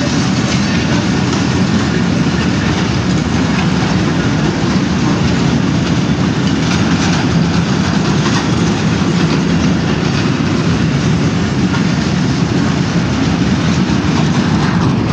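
Freight train of oil tank wagons rolling past on the rails: a steady, loud rumble of steel wheels, with scattered clicks as the wheels cross rail joints.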